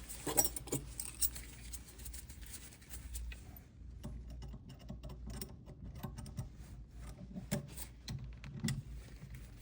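Faint rustling of a sheet of paper being moved by hand on the workpiece, with scattered small clicks over a low steady hum.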